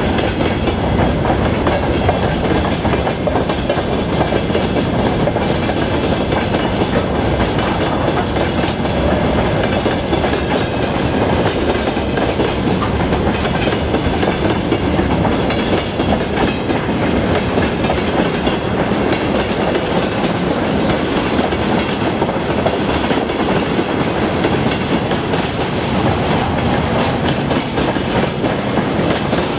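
Freight wagons rolling past: steel wheels clattering over rail joints in a continuous clickety-clack over a steady rumble and rattle of the cars.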